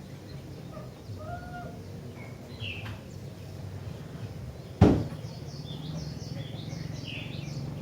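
Sooty-headed bulbul (kutilang) calling in short, scattered chirps, a quick series of them near the end, over a steady low hum. A single loud knock sounds about five seconds in.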